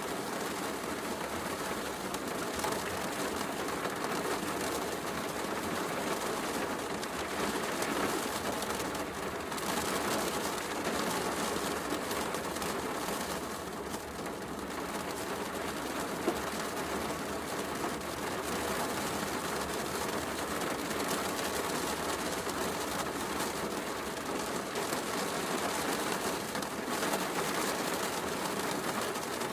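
Steady heavy rain falling, mixed with a fireplace crackling, with one sharp click about sixteen seconds in.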